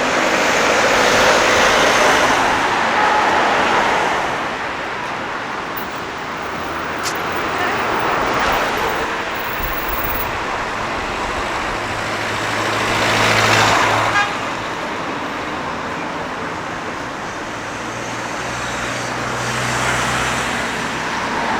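City street traffic, with vehicles passing one after another in about four swells of tyre and engine noise. A low engine hum can be heard from a heavier vehicle in the second half.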